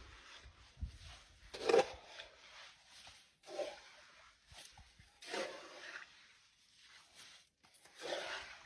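A dog barking four times, about two seconds apart, the third bark the loudest.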